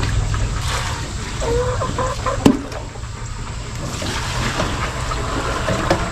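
Fresh water pouring and splashing into the pigs' water bowl, with one sharp knock about two and a half seconds in.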